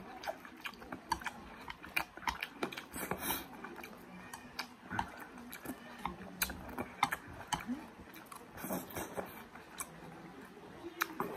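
A person chewing mouthfuls of juicy watermelon close to the microphone, with many short wet clicks and smacks scattered throughout.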